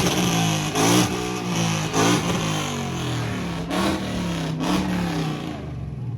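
Car engine revved hard through a loud exhaust: a series of sharp throttle blips, about one a second at first, over a rough idle, easing off near the end.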